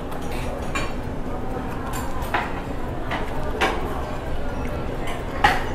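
Close-up mouth sounds of a person eating by hand: chewing with a handful of short wet smacks and clicks, the loudest near the end, over steady background noise.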